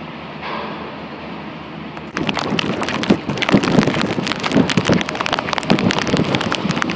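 A steady low drone, then about two seconds in a sudden loud rush of storm wind buffeting the microphone, ragged and crackling.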